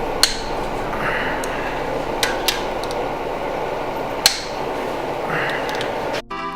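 A few sharp, separate metallic clicks and clinks from a socket wrench working on tight connecting-rod cap bolts, with a couple of brief scraping rasps, over a steady room hiss. Music cuts in near the end.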